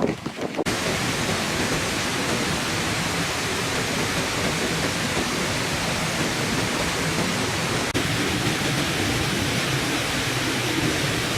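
Steady rush of water pouring down a built waterfall into a pond, starting abruptly less than a second in, with a single brief click about eight seconds in.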